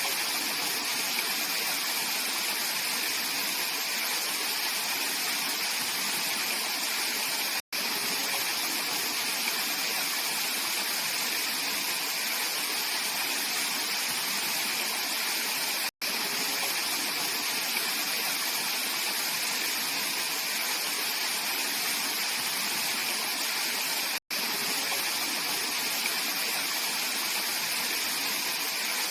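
Mountain valley stream flowing and splashing over rocks in a steady, even rush. It cuts to silence for an instant three times, about every eight seconds.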